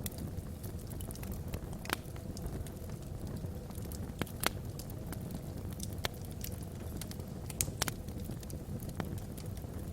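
Wood logs burning in a fireplace: a steady low rush of the fire with scattered sharp crackles and pops, the loudest about four and a half seconds in.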